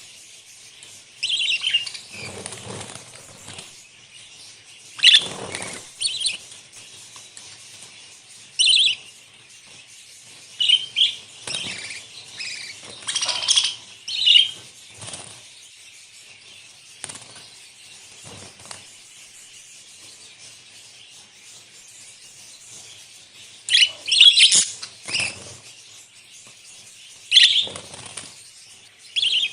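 Budgerigars chirping in short, scattered bursts, some with a rustle of wing flapping beneath them, with a lull of a few seconds in the middle.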